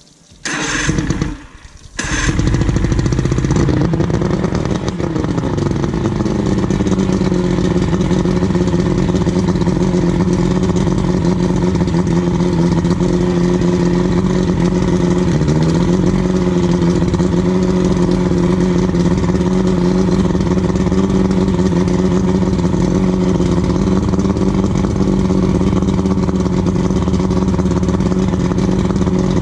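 Outboard motor starting: a short burst, a brief drop, then it catches about two seconds in and runs fast before settling to a steady idle. It revs briefly once near the middle.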